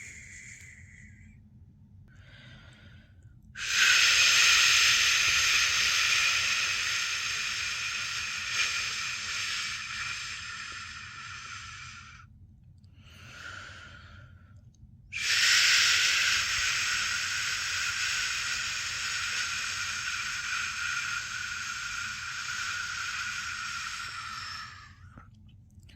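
A person making long 'shhh' shushing sounds to lull a newborn to sleep, the shush-pat method: two long shushes of about nine to ten seconds each, each trailing off slowly, with a short, softer breath-like sound before each one.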